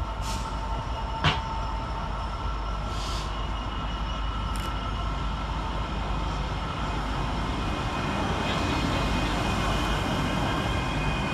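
Class 802 bi-mode train standing or moving at the platform: steady running noise with a few short hisses and a sharp click about a second in, growing slightly louder near the end.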